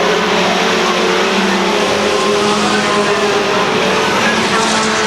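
Racing trucks' engines running at speed around a short oval, a loud steady drone with several engine notes overlapping.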